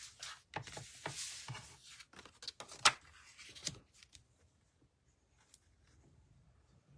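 Paper and card stock being handled and slid across a craft desk, with a rustling scrape, a few light taps and one sharp tap about three seconds in; quieter after about four seconds.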